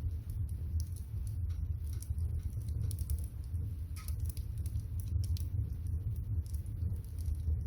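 Wood fire crackling with irregular sharp pops and snaps, over a steady low rumble of water heating in a pot on the fire.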